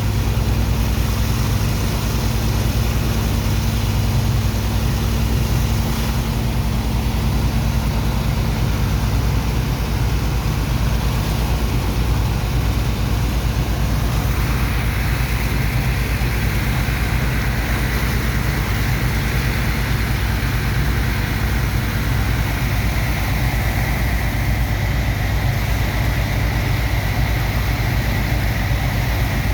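Heavy diesel engine of a sand-unloading dredger pump running steadily. A steady hiss comes in about halfway through.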